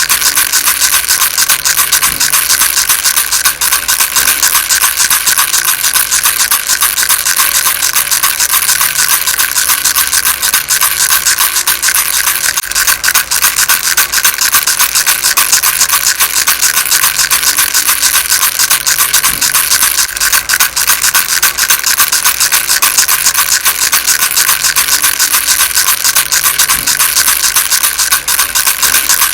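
Baby rattle shaken continuously: a steady, dense, rasping rattle of very rapid fine clicks.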